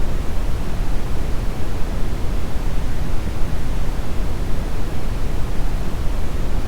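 Steady brown noise: an even, deep rumbling hiss, strongest in the low end and thinning toward the highs, with no change and no other sound.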